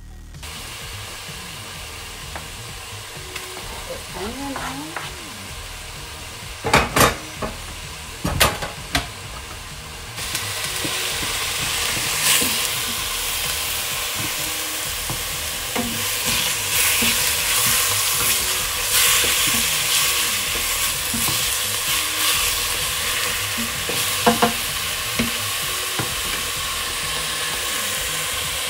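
Chicken mince and onion sizzling as they brown in a hot stainless steel pot, stirred and scraped with a wooden spoon. There are a few sharp knocks about seven and eight seconds in, and the sizzle grows louder about ten seconds in.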